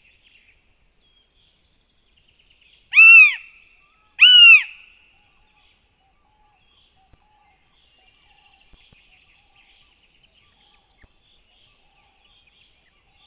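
Northern goshawk giving two loud calls about a second apart, each rising and then falling in pitch, over faint high chirping in the background.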